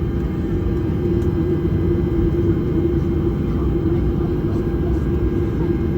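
Airliner cabin noise with the jet engines running: a steady low rumble under a steady hum.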